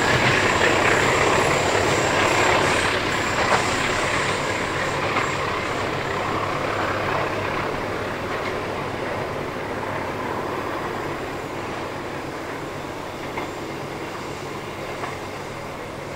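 Passenger train rolling away along the track, wheels and coaches rumbling on the rails, fading steadily as it recedes. A few faint clicks stand out along the way.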